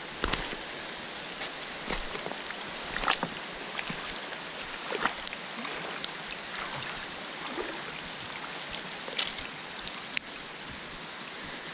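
Steady hiss of running water, with scattered sharp taps and knocks, the sharpest about ten seconds in.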